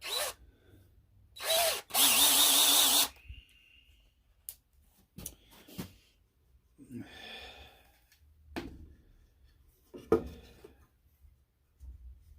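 Power drill running in three short bursts, the last and loudest lasting about a second at a steady pitch, followed by scattered knocks and clicks of wood and tools being handled.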